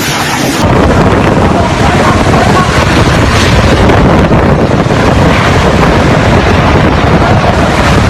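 Storm wind buffeting the microphone in a loud, steady rush that grows louder about a second in.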